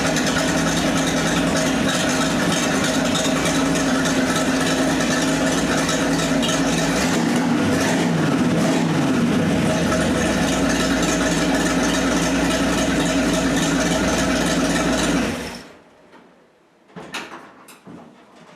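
Car engine running steadily with road and wind noise, its pitch dipping briefly and recovering partway through, then shut off abruptly about 15 seconds in. A few short clicks and knocks follow.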